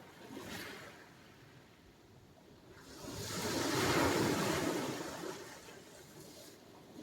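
Sea waves washing onto the shore: a quiet lull, then one wave breaks and rushes in about three seconds in, loudest around four seconds, and hisses away.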